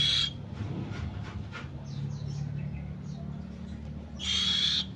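Buffy fish owl hissing twice, a short breathy hiss right at the start and another near the end.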